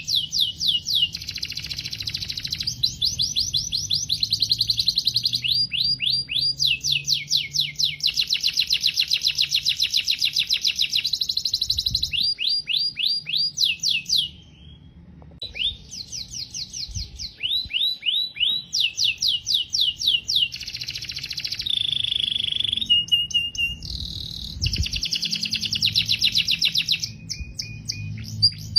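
Domestic canary singing a long song of rapid trills, each a fast run of repeated high notes, switching to a new trill every second or two with one brief pause about halfway through.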